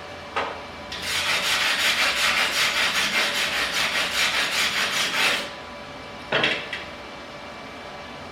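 MIG welding arc from a Primeweld MIG 160 running gasless flux-core wire. A brief strike is followed by about four seconds of steady arc crackle with a fast, even pulse, then another short strike.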